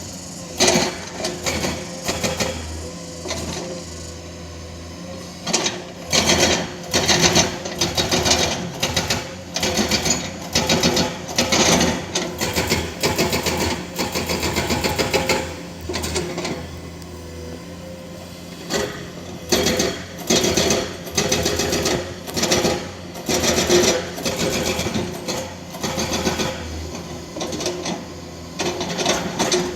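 Excavator's diesel engine running steadily under repeated short bursts of rough rattling and grinding as the machine works against rock, the bursts coming about once a second in stretches with quieter spells between.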